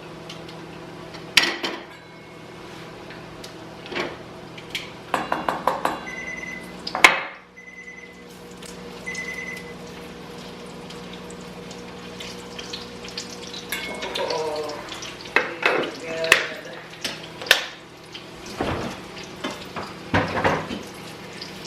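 Kitchen clatter of pans and utensils: clinks, taps and a loud knock about seven seconds in, over a steady hum. Three short high beeps from a kitchen appliance come around the middle.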